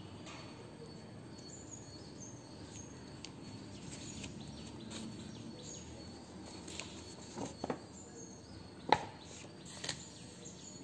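Quiet background ambience with faint, repeated high chirps of small birds. A few sharp clicks sound near the end, the loudest about nine seconds in.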